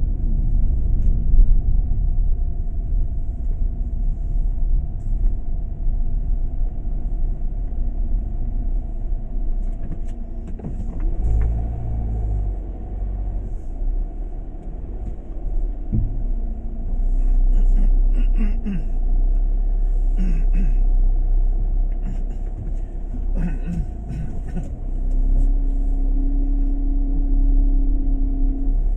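Steady low rumble of a vehicle on the road, swelling louder a few times.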